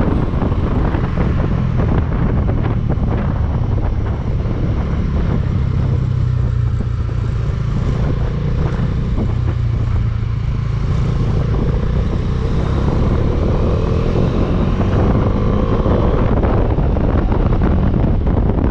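Motorcycle engine running at riding speed on the road, steady for most of the stretch, with the engine note rising over the last several seconds as it picks up speed.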